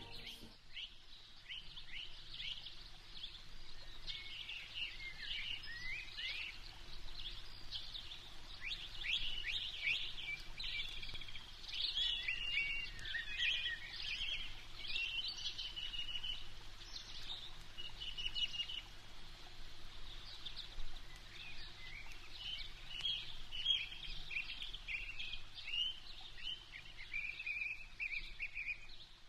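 Several birds chirping and singing, with many quick overlapping calls and short trills.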